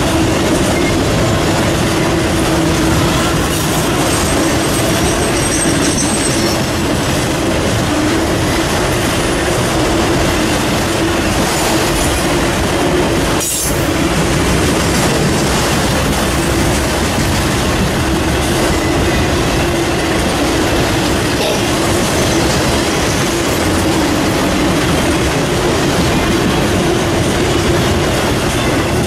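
Freight train of enclosed autorack cars rolling past at speed: the steady, loud rolling noise of steel wheels on the rails.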